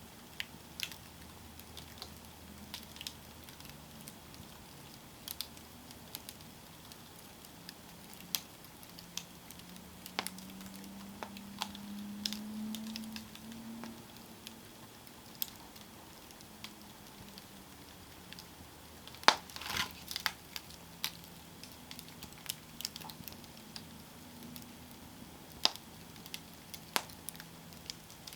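Wood campfire crackling, with irregular sharp pops over a steady low background and a quick run of louder pops about two-thirds of the way through. A low hum underneath swells briefly around the middle.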